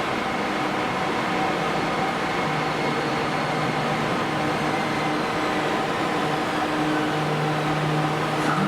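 Toei subway train at a station platform: a steady running rush with several steady humming tones. A low hum grows stronger about two and a half seconds in and again near the end.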